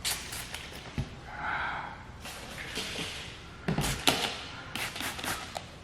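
Hand spray bottle of PPF tack solution squirting several short hisses, with handling clicks in between.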